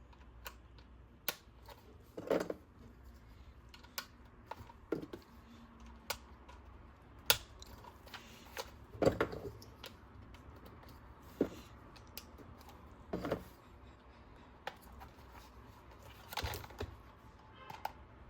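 Irregular light clicks, taps and brief rubbing from hands handling hard plastic toy parts and packaging, about fifteen separate small sounds spread out with short quiet gaps between them.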